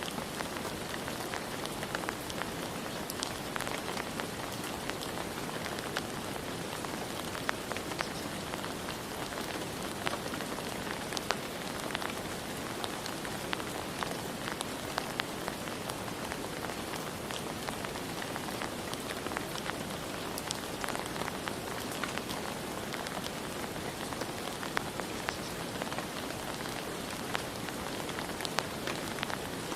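Steady rain falling, with individual drops ticking sharply on a hard surface scattered throughout.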